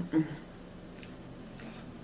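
A brief murmur of voice at the start, then quiet eating with a few faint mouth clicks over a low steady hum.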